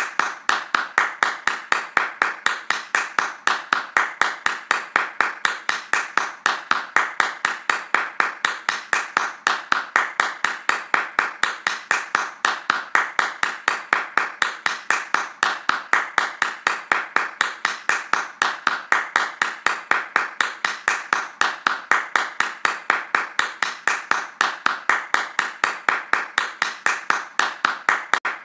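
Hands clapping fast in a steady, even rhythm of about four claps a second.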